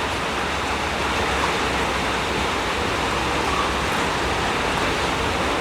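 Heavy rain from a rainstorm pouring down as a steady, even hiss.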